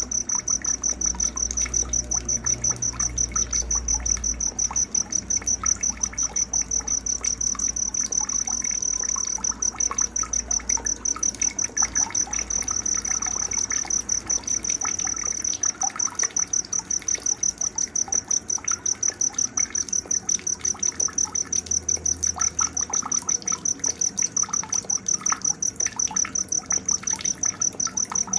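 Night-time insect chorus: a high-pitched cricket-like trill pulsing rapidly and evenly without pause, with soft scattered bird chirps beneath it.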